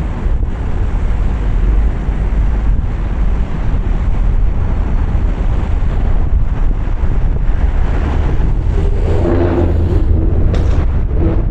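Steady low rumble of a car driving on wet roads in the rain: tyre and road noise with wind. A short pitched sound rises out of it about nine seconds in, and briefly again near the end.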